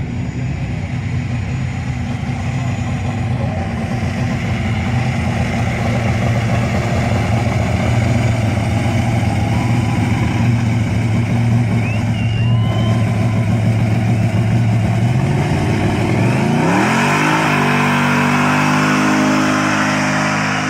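Classic American car engine running with a steady low hum, then revved up about 16 seconds in and held at higher revs.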